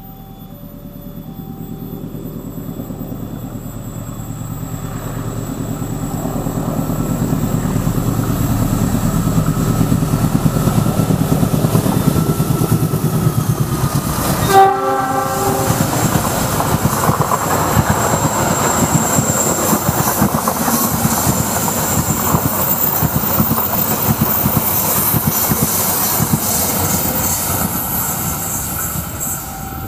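A passenger train approaching and passing, growing louder over the first several seconds. About halfway through its horn gives one short blast, then the rumble of wheels and the rattle of the passing cars go on steadily, easing a little near the end.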